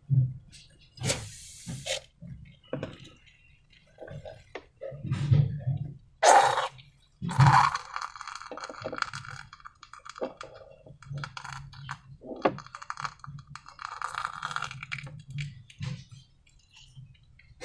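Clear slime being squished and worked by hand: irregular wet squelches, clicks and crackles, loudest a little past the middle.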